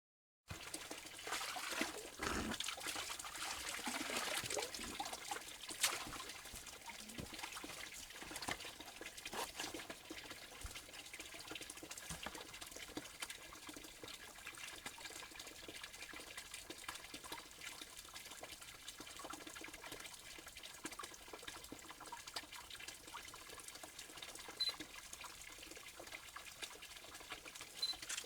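Water trickling steadily, with scattered small clicks.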